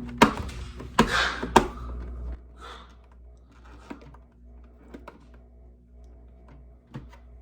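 Packing tape being pulled off a plastic humidifier and its plastic parts handled. A few sharp clicks and a short rasp come in the first two seconds, then faint scattered ticks.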